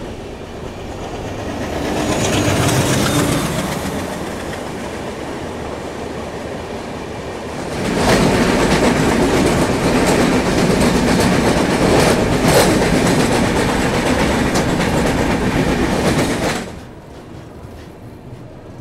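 Indian express train running on the track, heard from the coach's side: steady wheel-and-rail rumble with clickety-clack. It grows louder with sharp clacks about eight seconds in as the train crosses a river bridge, then drops quieter near the end.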